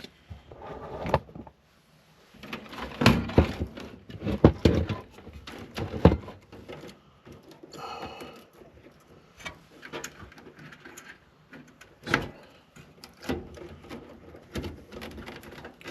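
Knocks, clicks and rattles of a desktop computer case and its parts being handled and pulled apart, in irregular bursts.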